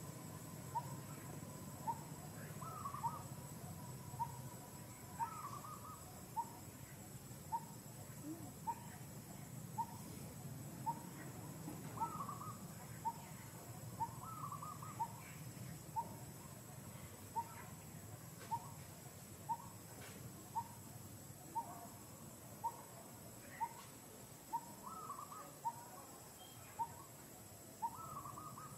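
A bird repeating one short, clear note at an even pace, about once a second. Another bird's short chirping phrases come in every few seconds, over a steady low background hum.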